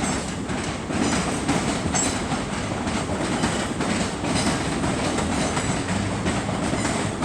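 ScotRail class 385 electric multiple unit running into the station past the microphone, a steady rumble of the train with wheels clicking over the rail joints.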